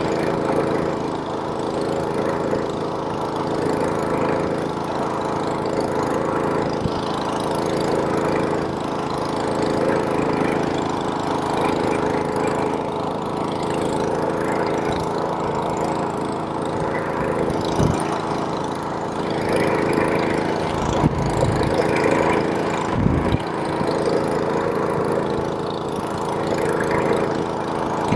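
Small-engine snowblower running steadily at a constant speed. A few brief low thumps come in the second half.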